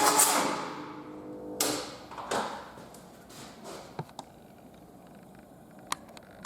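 Fiat Stilo 1.9 JTD common-rail four-cylinder diesel engine on a test stand being shut off, its running fading out over about a second and a half. Two short hissing bursts follow, then a few faint clicks.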